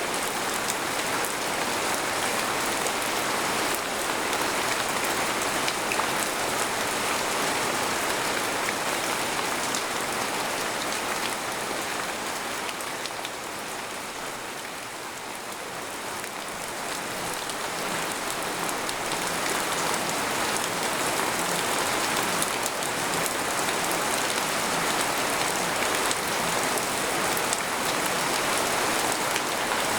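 Steady rain falling on a tent, heard from inside as a dense patter of drops. It eases a little about halfway through, then picks up again.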